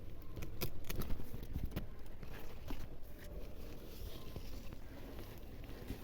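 Okra plants being handled during harvest: irregular sharp snaps and clicks, thickest in the first half, over a low rumble.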